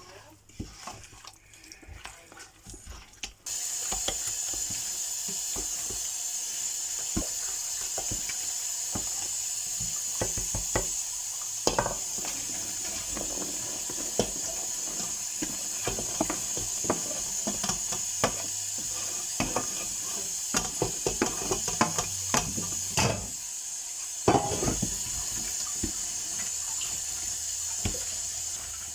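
Kitchen sink tap turned on about three seconds in and running steadily, with dishes and utensils clinking and knocking now and then.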